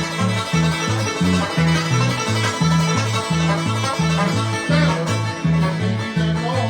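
Bluegrass music with banjo and guitar playing a fast tune over a bass line that alternates between two low notes on the beat.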